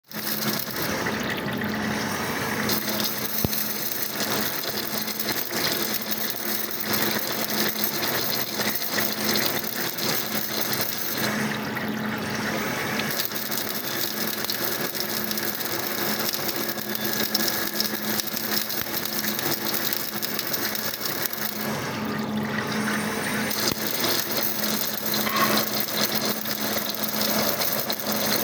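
A machine running steadily, with a constant hum under an even mechanical noise.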